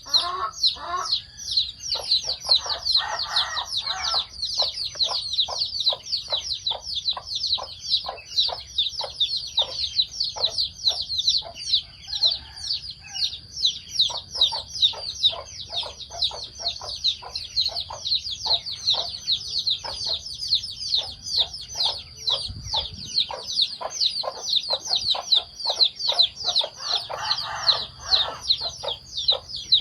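Chickens clucking as they feed, with short calls coming a few times a second and fuller bursts of clucking near the start and near the end. Over them runs a continuous fast, high peeping.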